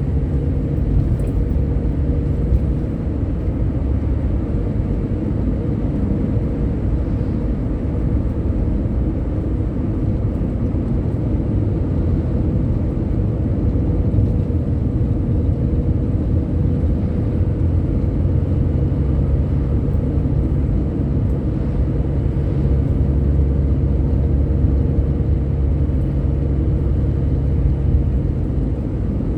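Steady low engine and road rumble of a vehicle driving along a road, with a low hum that grows a little stronger in the second half.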